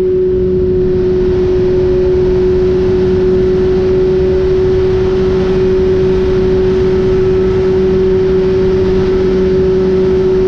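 BMW S1000RR's inline-four engine cruising at steady revs, holding one even pitch, under heavy wind rush on the microphone at highway speed.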